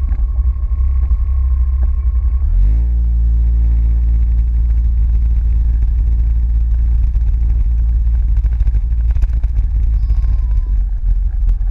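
A vehicle engine running under heavy low rumble. About two and a half seconds in, its pitch rises briefly, then holds steady.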